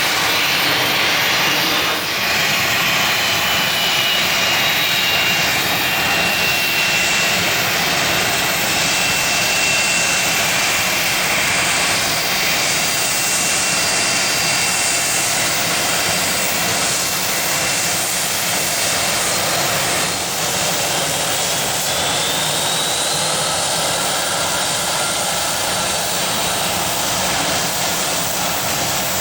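Jet aircraft engines running loud and steady, a dense rush of noise with a high whine that drifts slowly in pitch.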